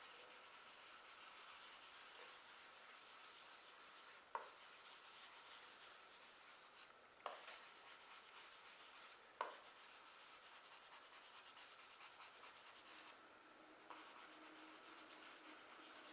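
Faint, steady rubbing on drawing paper as a charcoal area is blended out, with three light taps about 4, 7 and 9 seconds in.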